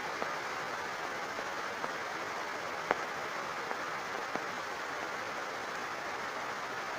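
Rain falling steadily, with a few sharp drips or splashes standing out, the loudest about three seconds in.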